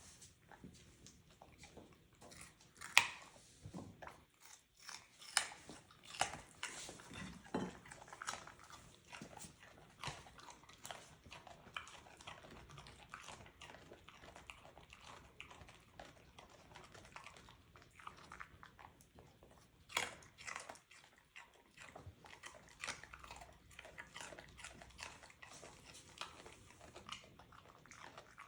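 Half-husky dogs chewing and crunching food, with irregular crunches and smacks and a few louder bites.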